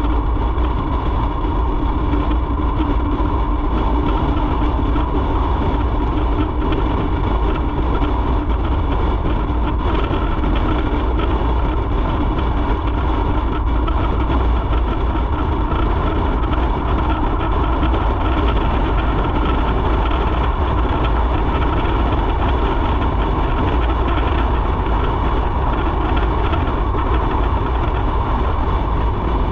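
Motorcycle being ridden at a steady pace: engine and road noise running continuously, with no change in loudness.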